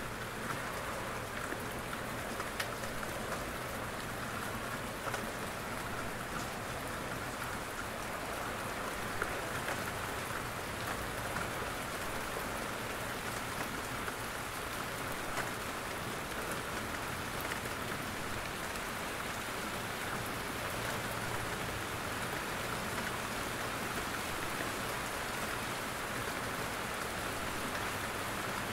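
Steady rain falling in a forest, with scattered separate drops landing from the trees on top of the even hiss of the downpour.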